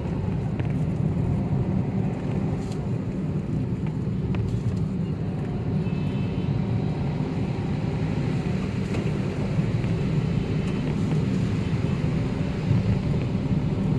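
Vehicle engine and road noise heard from the vehicle while driving, a steady low rumble.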